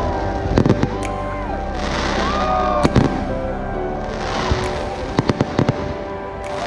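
Fireworks display: repeated sharp bangs, with a quick run of crackling about five seconds in, heard over background music with sustained tones.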